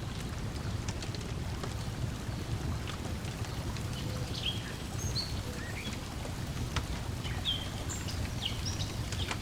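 Layered lakeside ambience: water lapping with a steady low rumble, scattered short bird chirps, and the light snaps of a crackling wood fire.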